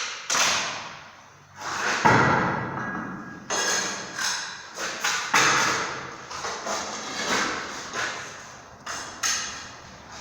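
A series of about a dozen irregular thuds and knocks, each sharp at the start and dying away over a moment, such as tools knocking on masonry.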